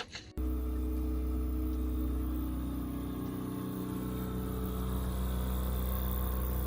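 Sailboat's engine running steadily under way, a constant low hum.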